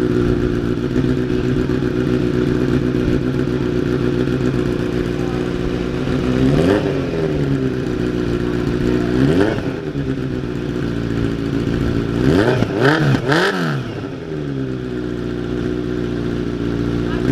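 Kawasaki Z900 inline-four engine idling through an Arrow full-system exhaust with the DB killer fitted, given several quick throttle blips in the second half that rise and fall in pitch.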